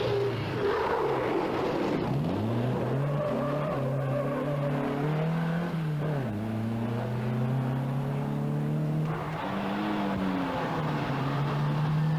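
Rally car engine under hard acceleration through the gears: its note climbs steadily, then drops back sharply at each change, about three times.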